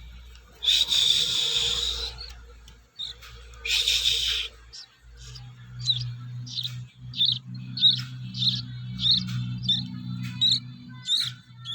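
Baby songbird begging while being hand-fed: two long, loud squawks, then a run of short chirps about two a second. A steady low hum comes in about halfway through.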